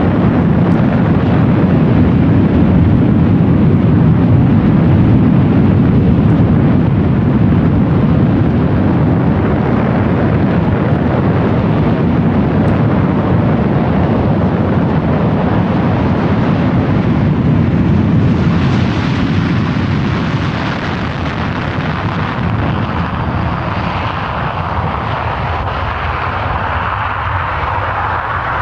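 Loud, steady jet noise from a Panavia Tornado GR1's twin RB199 turbofans, heavy and low at first; about two-thirds of the way through it eases slightly and turns thinner and higher-pitched.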